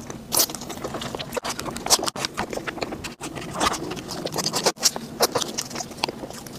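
Close-miked eating sounds: chewing and crunching a cream-filled bun with a crumbly topping, full of irregular wet clicks and crackles, along with the crinkle of plastic gloves and a clear plastic container being handled.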